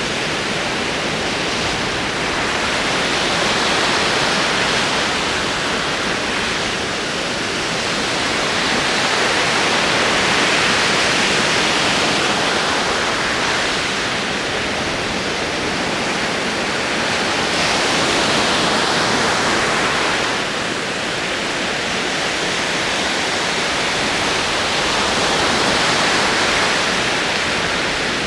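Ocean waves rolling onto a shore: a continuous wash of surf that swells and eases about every seven or eight seconds.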